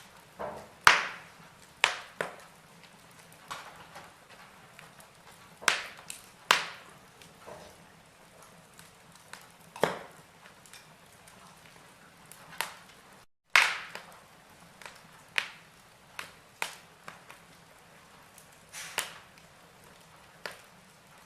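Logs burning in a fireplace, crackling: irregular sharp pops and snaps, a few much louder than the rest, over a low steady hiss of the fire. The sound drops out for a split second about two-thirds of the way through.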